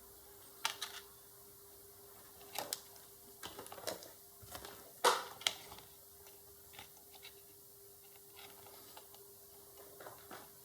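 Irregular sharp clicks and light knocks of hands handling wires, probes and the board on a workbench, the loudest about five seconds in, over a faint steady hum.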